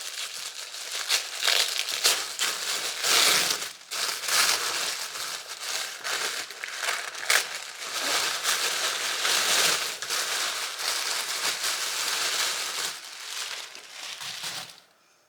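Packaging being crinkled and crumpled in the hands as a pair of motorcycle gloves is unwrapped, a continuous rustling crackle that stops just before the end.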